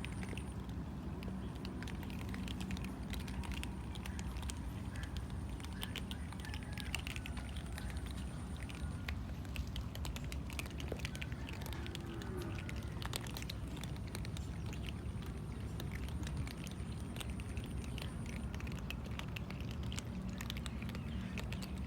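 Cats eating, with many small irregular clicks and crunches over a steady low hum.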